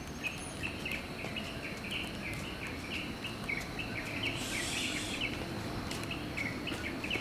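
Outdoor chorus of short, high chirps repeating about three or four times a second over a low background rumble, with a brief hiss about four and a half seconds in.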